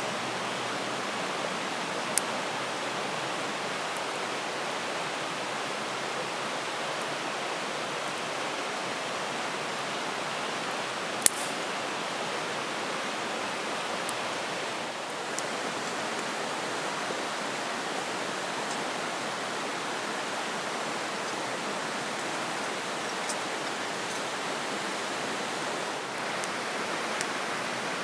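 Steady rushing of flowing stream water, with a few single sharp clicks over it.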